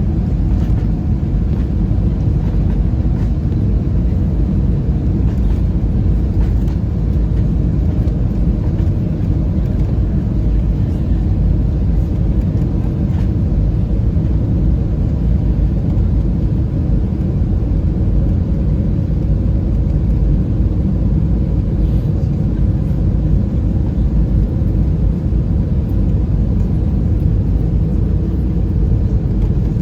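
Steady low rumble inside the passenger cabin of an Airbus A320-216, from its CFM56 engines and airframe, even and unchanging with faint steady tones above the rumble.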